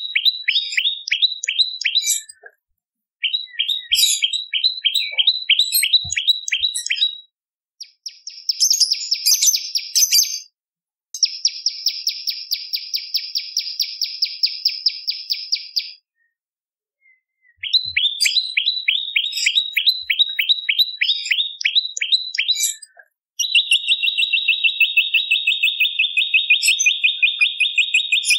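Prenjak lumut singing: repeated series of quick, high down-slurred notes, about four or five a second, broken by short pauses, with two buzzy trills in the middle and a long, fast, even trill near the end.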